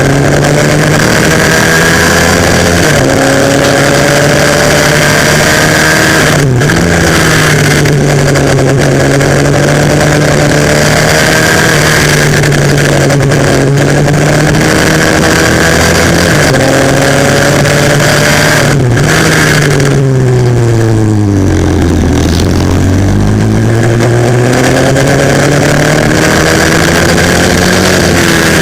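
140cc single-cylinder four-stroke pit bike engine at race pace, rising in pitch through the gears with short dips at each upshift. About two-thirds through the revs fall away through several downshifts for a corner, then climb again.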